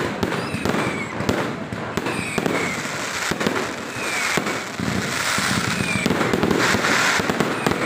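Fireworks going off in rapid succession: many sharp bangs and crackles over a dense hiss, with short whistles falling in pitch.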